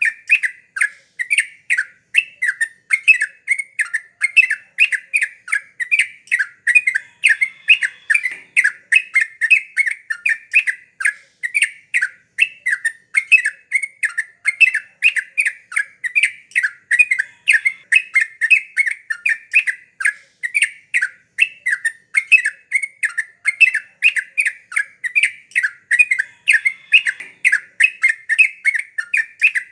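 Yellow-vented bulbul (trucukan) singing without a break: a fast, chattering run of short notes, about four a second.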